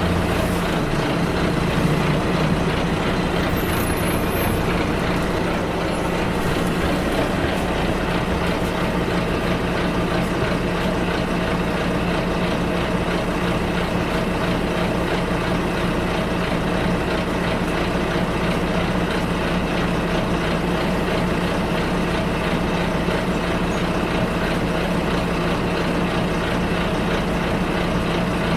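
Bus heard from inside the passenger cabin: steady engine hum and road noise as it drives, with a few faint high chirps about four seconds in.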